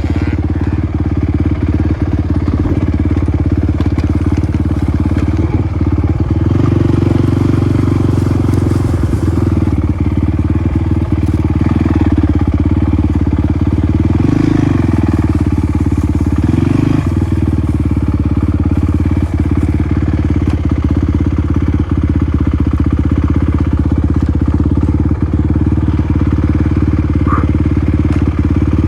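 Dirt bike engine running steadily, with two brief drops and recoveries in engine speed around the middle.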